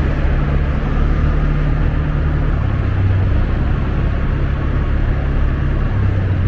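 Rented motorbike's engine running at a steady low city speed of about 25 km/h, with wind and road noise over the microphone. The engine note shifts slightly a couple of times.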